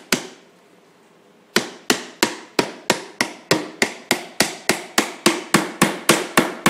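Hammer driving a nail into wood: one blow, a pause of about a second and a half, then a steady run of blows at about three a second.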